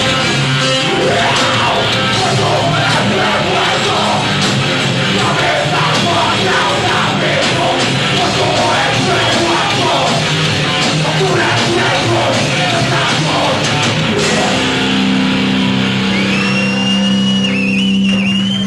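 Live rock band playing loud heavy rock with distorted electric guitars and drums. Near the end the band holds a low chord, and a high whistling feedback tone rings out over it.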